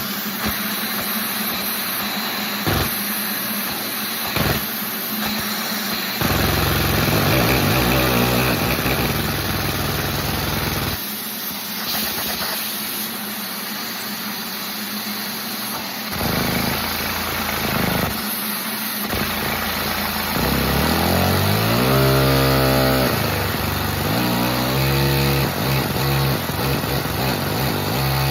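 Small gasoline engine, silent at first apart from a couple of sharp clicks, starts running about six seconds in and stops around eleven seconds. It catches briefly near sixteen seconds, then from about nineteen seconds runs steadily, revved up and down several times.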